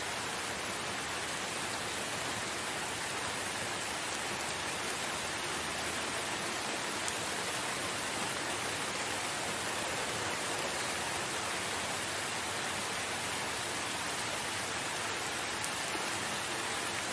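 Steady rain falling in a forest, an even hiss with the occasional single drop ticking.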